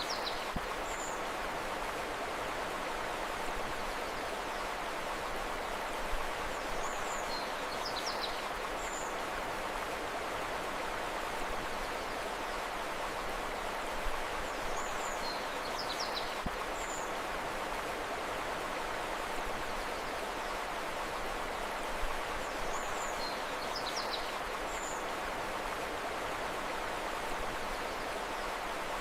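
Steady rushing of a river or stream, with short high bird chirps that come back in the same pattern about every eight seconds.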